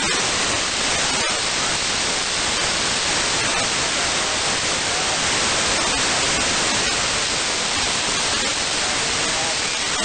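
Steady radio static: the hiss of an FM receiver with its squelch open, tuned to the LAPAN-A2 (IO-86) voice repeater downlink, with no voice signal coming through. A few faint clicks stand out in the hiss.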